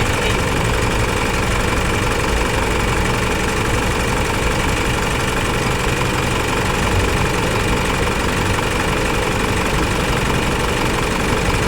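Isuzu Mu-X turbodiesel engine running steadily at idle, with no revving.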